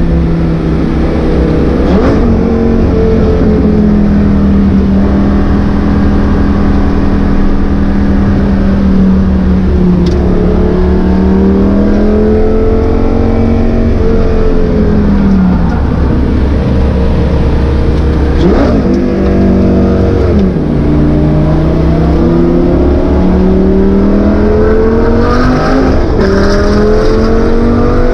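Lamborghini Gallardo's V10 engine at track pace, heard from inside the cabin. Its pitch climbs under acceleration and falls away again, with several sudden drops at gear changes, over a constant low road rumble.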